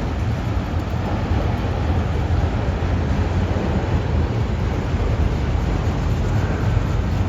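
Train passing, a steady, unbroken low rumble.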